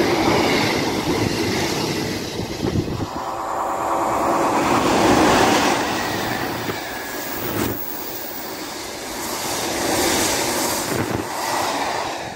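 Trains passing close by at speed: the wagons of a container freight train rattling past, then a rake of Pullman-style passenger coaches rushing by, wheels running on the rails. A brief steady ringing tone sounds from about three to five seconds in.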